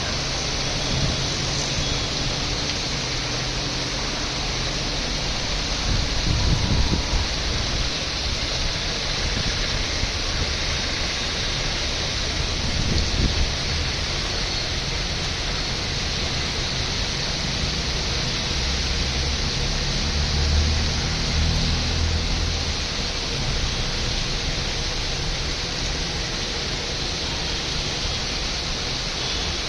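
Heavy rain falling in a steady hiss, with a few brief low rumbles along the way.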